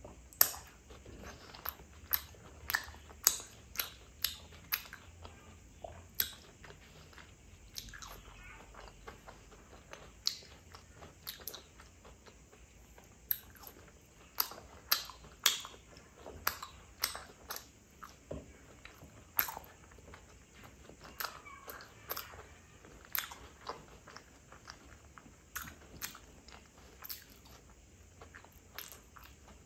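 Close-miked chewing of Khmer desserts: irregular sharp mouth clicks and smacks, often several in quick succession, with soft chewing between them.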